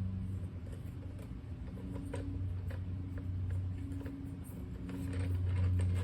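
Faint clicks and taps of a lock handle being screwed by hand onto a carriage bolt, over a steady low hum that swells near the end.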